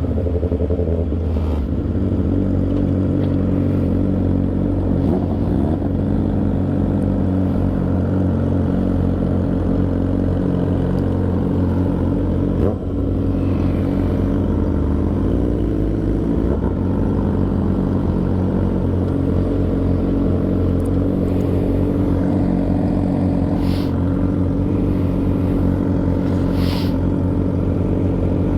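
Motorcycle engine running at a steady cruising speed, with wind rumbling on the microphone and a brief dip in level about 13 seconds in.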